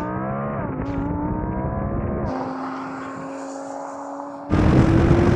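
High-performance Audi engine accelerating hard at full throttle in a drag race. Its pitch climbs and drops back at an upshift about a second in, climbs again and drops at a second upshift a little after two seconds, then holds steady. Near the end it suddenly gets louder, with a rushing noise over a slowly rising engine note.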